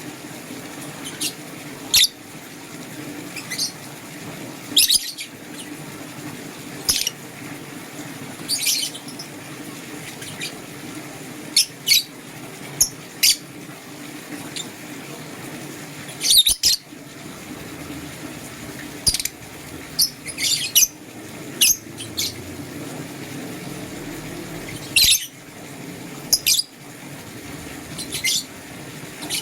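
Lovebirds chirping: short, sharp, high-pitched calls at irregular intervals, about one every second or two, over a steady low hum.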